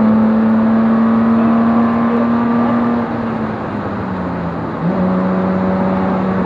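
BMW race car engine heard from inside the stripped cabin, running at steady high revs. About three seconds in the engine note and level drop as the throttle comes off, and just before five seconds in the revs step sharply back up and hold, over steady road and wind noise.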